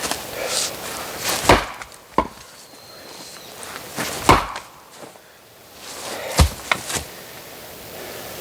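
An axe chopping knotty oak firewood: three heavy blows about two and a half seconds apart, with lighter knocks of wood after the first and last blows.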